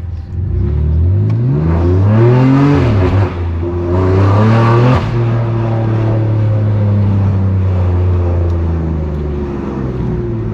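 BMW M3 Competition's S55 twin-turbo inline-six on a straight-piped exhaust accelerating, its pitch climbing, then briefly dipping about three seconds in before pulling again. About five seconds in it lifts off the throttle abruptly and settles into a steady cruise.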